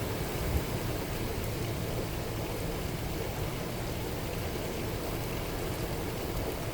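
Steady rain falling, with a low rumble of thunder dying away in the first second or so.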